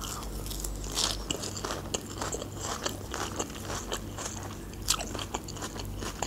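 A mouthful of Caesar salad with shrimp being chewed, making many small crunching clicks, over a faint steady low hum.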